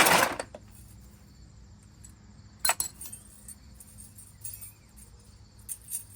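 Metal tools and parts clinking and knocking while a car wheel is being refitted, with one loud clunk at the start and a few sharp clinks later on.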